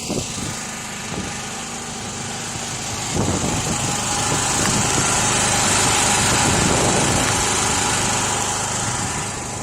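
Portable petrol generator running steadily to recharge a depleted battery bank; the engine drone grows louder about three seconds in.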